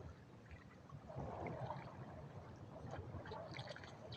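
Faint water sloshing and splashing against a small fishing boat, growing a little louder about a second in, with a few light knocks.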